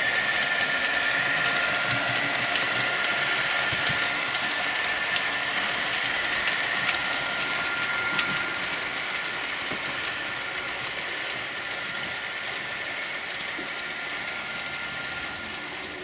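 Model train running on the layout track: a steady motor whine with light clicking of wheels over the rail joints, dropping somewhat in level after about eight seconds.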